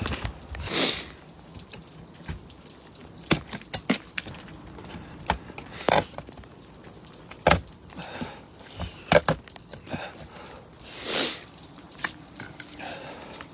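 Ice crust on a frozen car being chipped with a metal awl: scattered sharp knocks and cracks at irregular intervals, with two brief scraping swishes, one near the start and one near the end.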